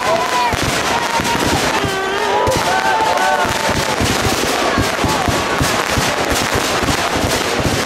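Fireworks and firecrackers going off in a rapid, unbroken stream of sharp bangs and crackles, with a crowd's voices underneath.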